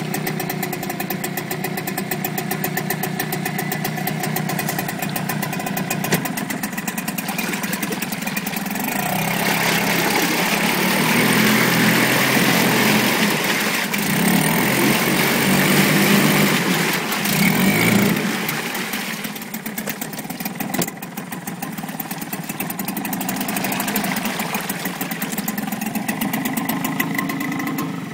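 Suzuki 4 hp outboard motor running: idling steadily, then revved up for about ten seconds from around nine seconds in, and settling back to idle.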